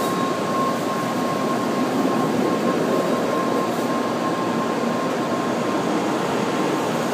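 N700 series Shinkansen train rolling slowly along the platform, a steady rumble of its cars passing with a faint high whine over it that fades out about five seconds in.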